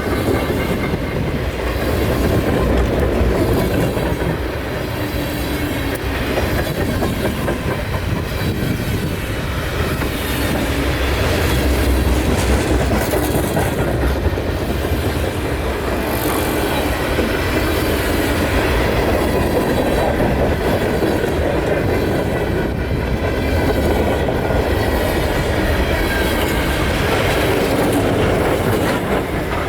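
Freight train rolling past steadily, its car wheels clacking over rail joints, with a faint high wheel squeal.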